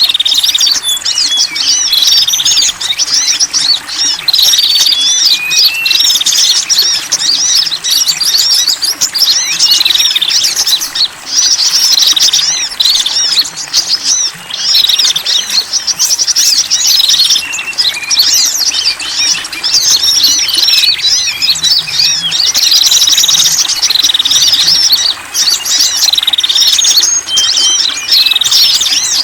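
Bird-lure recording of small wild birds calling: a dense, continuous tangle of high-pitched chirps and rapid trills, many overlapping calls.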